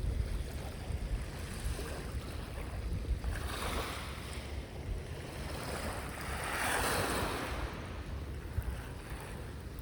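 Ocean waves breaking and washing in, with two swells of surf about three and a half and six and a half seconds in, over steady wind buffeting the microphone.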